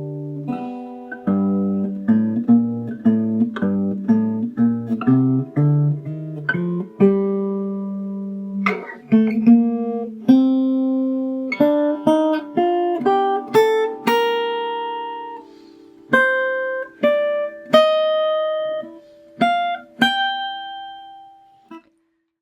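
Ukulele played fingerstyle, a free-play melody of single plucked notes on the G minor scale. The notes come quickly at first, then slow to spaced notes left to ring, and the playing fades out near the end.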